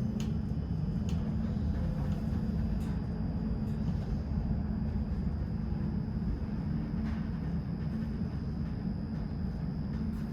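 Tram running along its rails with a steady low rumble, a faint steady high whine above it and a few light clicks.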